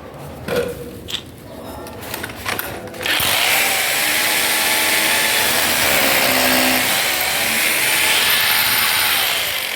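Electric rotary hammer drill set to drilling-only mode: a few handling clicks, then about three seconds in the motor starts and runs loud and steady for about six seconds, its pitch wavering, before winding down near the end.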